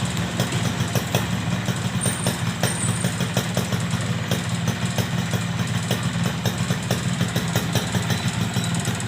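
Yamaha RX-King 135cc two-stroke single-cylinder motorcycle idling steadily through a gutted, noisy aftermarket exhaust (knalpot bobokan).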